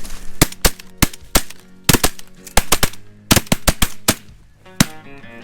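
A rapid volley of shotgun blasts at snow geese from several hunters firing at once, about seventeen shots in quick, uneven clusters over four and a half seconds.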